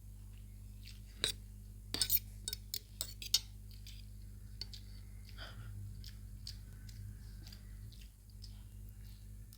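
Cutlery clinking against a plate several times in quick succession during the first few seconds, then fainter scraping and eating sounds over a steady low hum.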